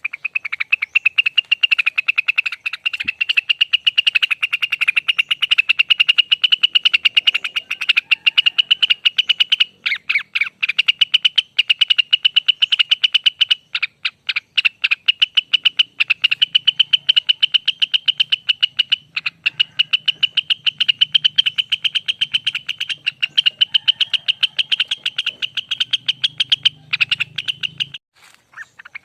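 Cucak wilis (rengganis) leafbird singing a long ropel: a fast, almost unbroken stream of rapid chattering notes at a steady pitch, broken only by a few short pauses.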